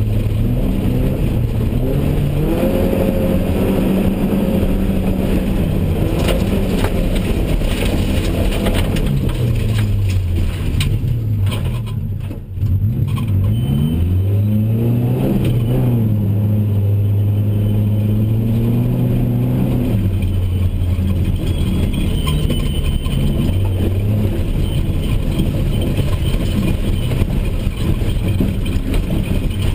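BMW 318i E30's four-cylinder engine heard from inside the cabin, revving up and down as the car is driven hard around a dirt course. Its pitch falls about ten seconds in, dips briefly in level as the driver lifts, then climbs again and holds, over a steady rumble of tyres on dirt.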